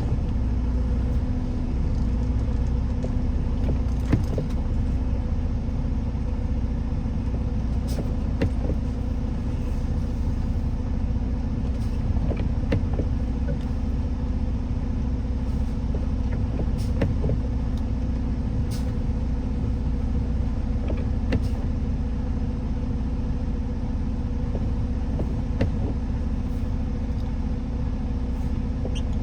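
A vehicle driving on a road: a steady low rumble of engine and tyres with a faint steady hum, and scattered light ticks.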